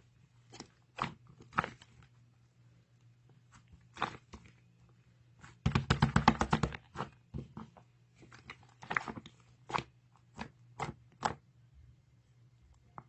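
Soft slime being pressed and poked by hand, giving sticky pops and clicks, with a dense run of rapid crackling about six seconds in.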